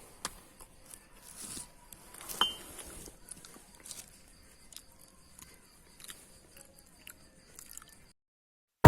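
Sparse faint clicks and ticks from a small caged cililin bird, with one short high chirp about two and a half seconds in. It cuts to silence near the end.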